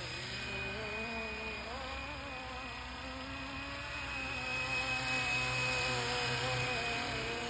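Fly Wing BO-105 electric RC scale helicopter in flight: a steady whine from its motor and drivetrain over a low rotor hum, the pitch wandering slightly up and down as the rotor speed shifts.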